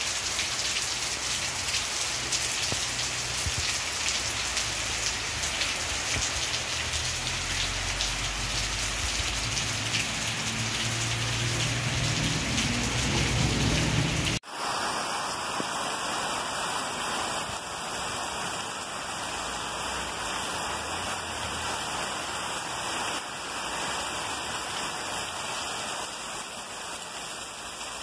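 Heavy rain falling in a steady patter, with a low rumble building beneath it toward the middle. About halfway through it cuts abruptly to a steadier, smoother rain.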